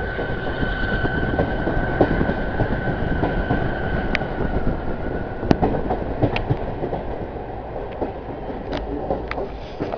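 A train running along the track, heard from on board: a steady rumble of wheels on rails with scattered sharp clicks. A thin high whine runs through the first few seconds and then fades.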